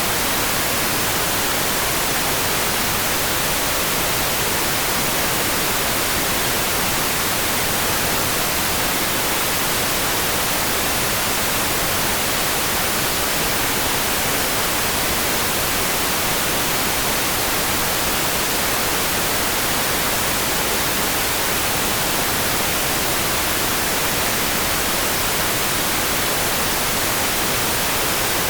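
Steady, dense rain: an even hiss with no separate drops, thunder or other events standing out.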